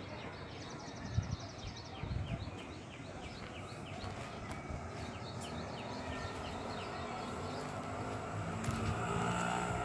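A bird calls over and over with short, falling chirps, against low wind rumble on the microphone. In the last few seconds a motor engine grows louder.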